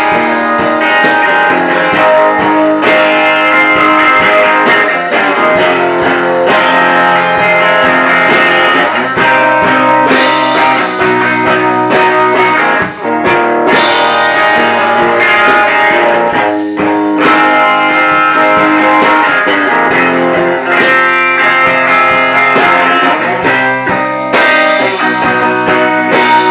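Live rock band playing an instrumental passage: electric guitar over a steady drum beat, with no singing.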